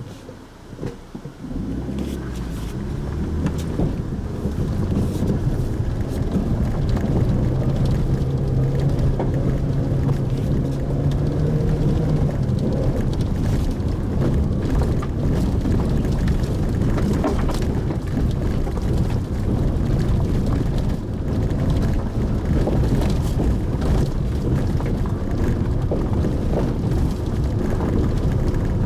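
Pajero Mini kei 4x4's engine and road noise on a drive: quiet for about the first second and a half, then picking up and running steadily, with an engine hum rising and settling in the middle.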